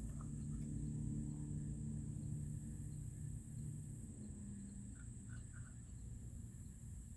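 Outdoor background: a steady high insect drone, a low steady hum that fades out about five seconds in, and a few faint chirps.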